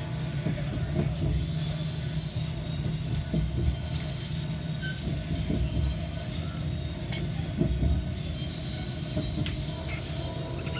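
Metra commuter train running, heard from on board: a steady low rumble from the wheels on the rails, with a few knocks as the wheels pass over rail joints.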